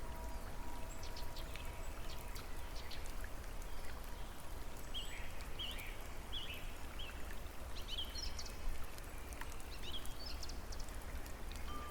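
Steady rush of running water, with small birds chirping now and then, most of the chirps between about five and nine seconds in.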